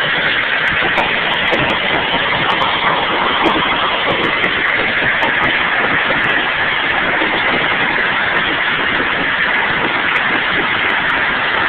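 Hailstorm: a dense, steady clatter of hailstones striking hard surfaces, with many sharp single impacts standing out.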